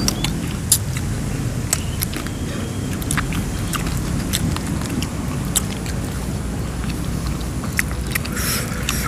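A person chewing and smacking while eating, with many short, irregular wet mouth clicks, over a steady low rumble.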